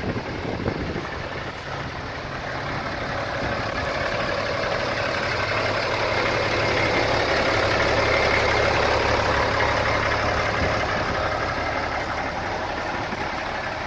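2004 Case IH MXU125 tractor's diesel engine running at a steady idle, growing louder towards the middle and easing off again near the end.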